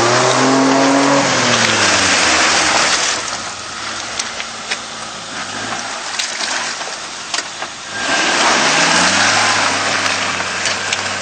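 Small off-road 4x4's engine revving hard as it climbs a steep dirt slope. It eases off through the middle with a few sharp knocks, then revs up again about 8 seconds in and holds a steady pull.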